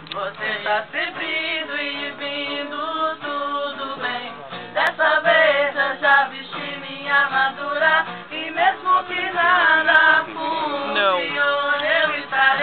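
Singing with guitar accompaniment, voices carrying a melody over steady low guitar notes.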